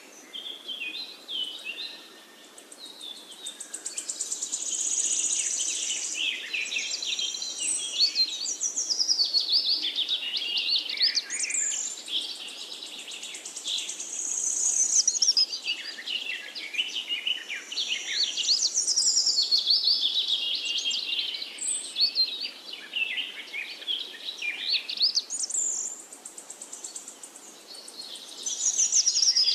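Birds chirping and singing: quick, high, warbling notes in long runs that swell and fade.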